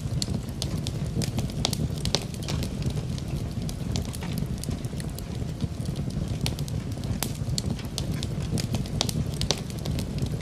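Wood fire in a fireplace crackling, with frequent irregular sharp pops and snaps over a steady low rumble of the flames, mixed with an even hiss of falling rain.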